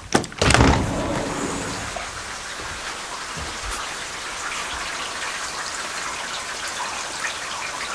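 Heavy rain pouring down steadily in a dense, even hiss of drops. A click and a short thump come near the start.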